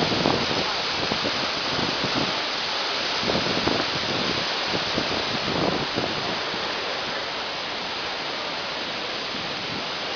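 Waterfall crashing with a steady, even rush of falling water, with a few louder surges in the first six seconds.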